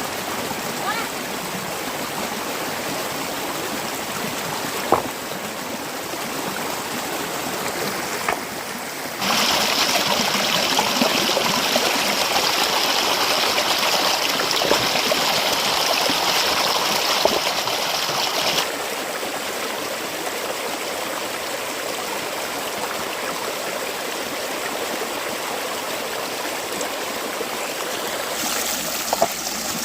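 Fast-flowing stream water rushing steadily. It gets louder and hissier for about nine seconds in the middle, with one sharp knock about five seconds in.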